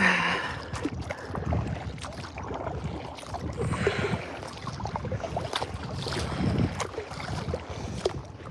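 Kayak paddling: the paddle blades dip and splash in the sea in swells every couple of seconds, with water lapping against the hull and wind buffeting the microphone.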